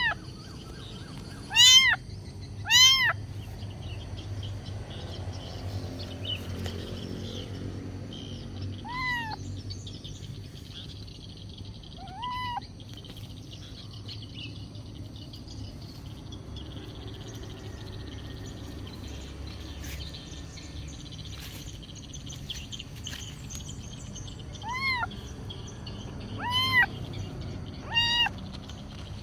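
Kitten meowing in short, high calls that rise and fall in pitch, about eight in all: three close together at the start, two single meows in the middle and three more near the end. The meows are a kitten begging for food.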